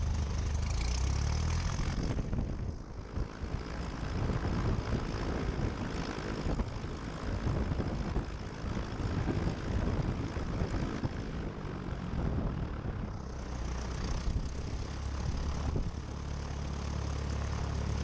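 Cessna 172 Skyhawk's piston engine and propeller running steadily at low power on the ground, heard through the headset intercom feed.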